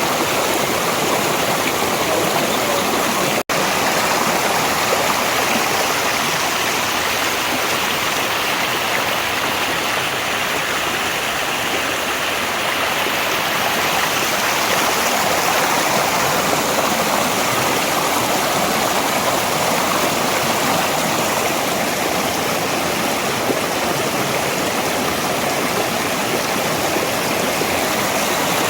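Water of a valley stream rushing steadily, an even unbroken wash of sound, with a momentary dropout about three and a half seconds in.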